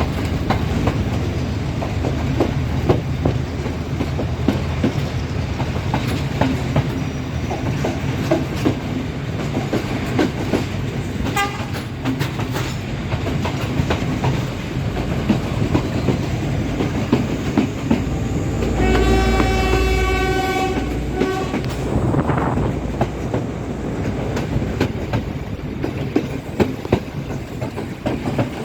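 A diesel-hauled express train running at speed with a quick clickety-clack of wheels over rail joints and points. About two-thirds of the way through, a locomotive horn sounds one steady blast lasting about two seconds.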